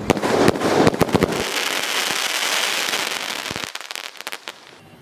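Cactus Rain 3.5-inch aerial firework bursting: a quick run of sharp cracks and pops, then a dense crackling that thins out to scattered pops about three and a half seconds in.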